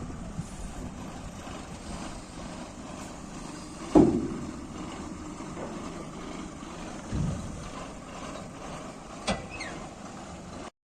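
Heavy diesel machinery at a loading site running steadily, with a loud knock that rings briefly about four seconds in and smaller knocks a few seconds later.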